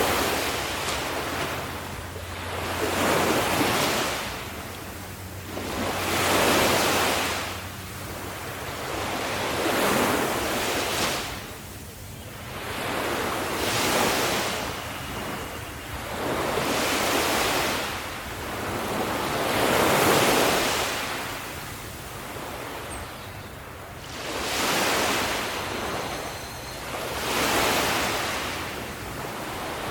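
Ocean waves washing onto a beach, each one swelling and fading, one about every three seconds.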